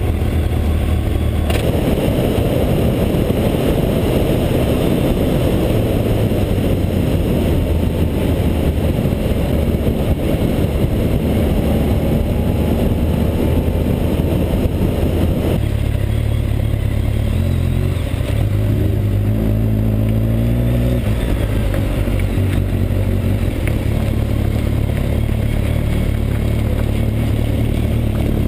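Motorcycle engine running under way, with a heavy rush of noise over it from a couple of seconds in. About halfway through the rush drops away and the engine note comes through clearer, changing pitch.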